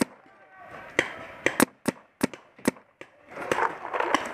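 Paintball marker firing a string of sharp shots, about seven in the first three seconds at an uneven pace, followed by a louder rushing noise near the end.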